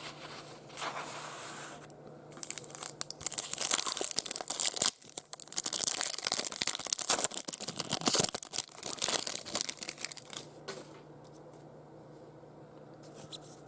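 A Topps baseball card pack wrapper being torn open and crinkled by hand. The crackling runs for about ten seconds and stops near the end.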